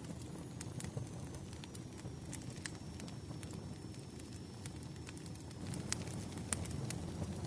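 Campfire burning: a steady low rumble of flames with irregular sharp crackles and pops of the wood.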